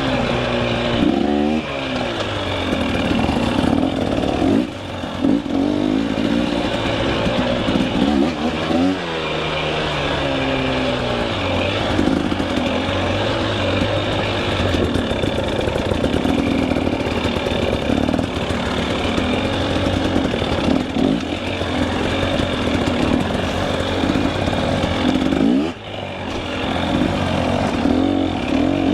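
KTM 300 EXC two-stroke dirt bike engine revving up and down over and over as the throttle is worked on and off.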